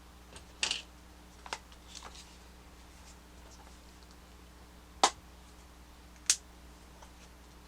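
Small plastic HexBug Junk Bots toy parts being handled and fitted, with a short rustle and scattered light clicks, then two sharp clicks about five and six seconds in.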